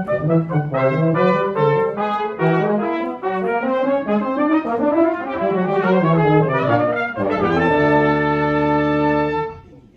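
Brass quartet playing a lively passage of moving notes, ending about two-thirds of the way in on a long held chord that cuts off just before the end.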